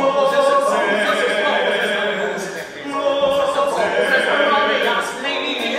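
Singers in a stage musical holding long sung notes, with a short break about halfway through.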